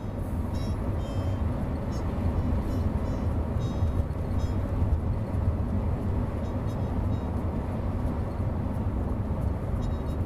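Steady low rumble of a car on the road, with short high chirps now and then.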